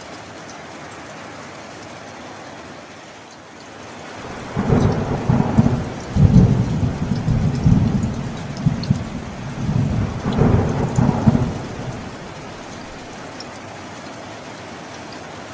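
Steady rain falling, with a peal of thunder rolling in about four seconds in: a low rumble that swells in several surges and fades away after about eight seconds, leaving the rain alone.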